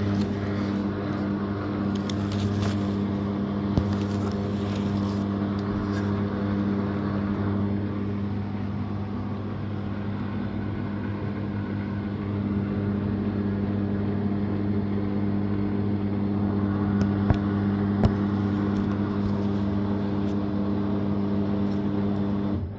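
Living & Co 5.5 kg top-loading washing machine running mid-cycle, a steady low mechanical hum with a noisy whirr and an occasional faint click.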